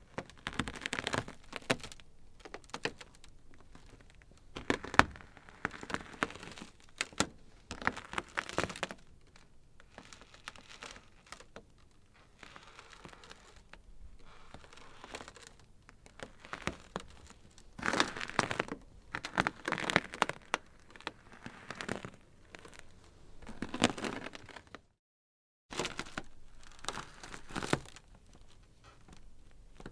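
Ice crackling: irregular runs of sharp snaps and crackles, some louder clusters among quieter fizzing stretches. The sound drops out completely for under a second about 25 seconds in.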